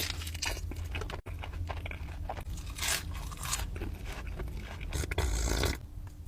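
Close-up crunching and chewing of breaded fried chicken fingers: a run of crisp bites and chews, loudest for a moment near the end.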